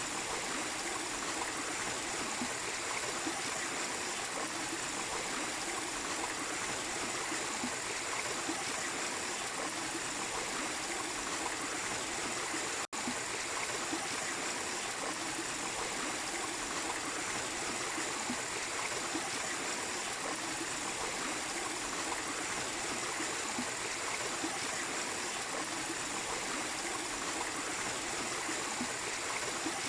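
Small waterfall splashing and running steadily. The sound drops out for an instant about 13 seconds in.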